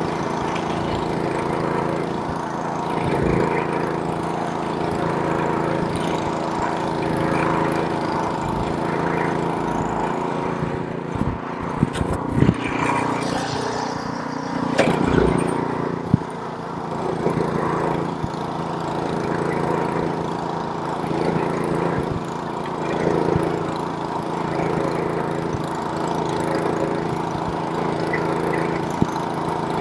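Snowblower's small engine running steadily as it throws snow, with a few short knocks and clatters around the middle.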